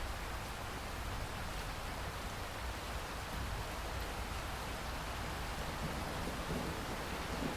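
Steady rain falling, an even continuous hiss of drops without breaks.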